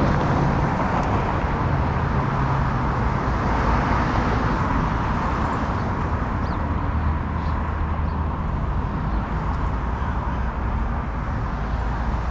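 Steady wind rumble on the microphone and street traffic noise while riding a bicycle through city streets.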